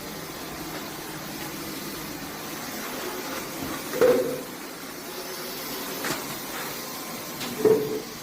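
Dyson V12s cordless stick vacuum running with a steady hiss. Two short, loud knocks come about four seconds in and again near the end, with fainter clicks between them.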